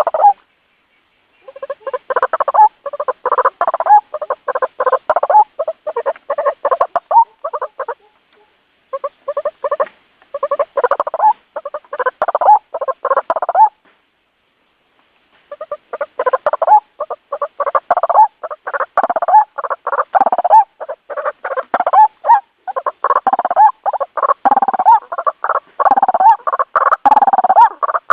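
White-breasted waterhen calling loudly: fast, harsh, repeated croaking notes, several a second, in three long bouts broken by brief silences.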